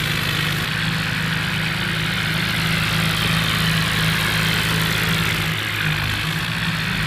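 Tractor diesel engine running steadily under a constant hiss.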